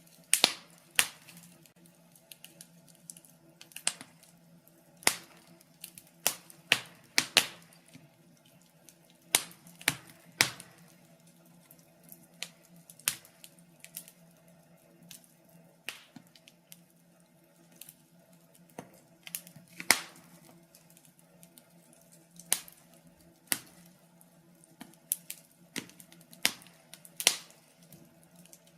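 Logs burning in a fireplace, crackling: sharp, unevenly spaced pops about once a second, some much louder than others, over a faint steady low hum.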